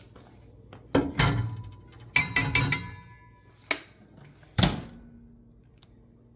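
Kitchen clatter of a metal bowl being handled: a few sharp knocks, a quick run of clinks that ring briefly, then a single knock and a heavier thump.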